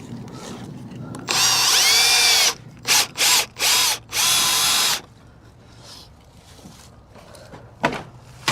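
Power drill driving a screw into fence wood: one long run of the motor, then three quick trigger pulses and a final run about four seconds in.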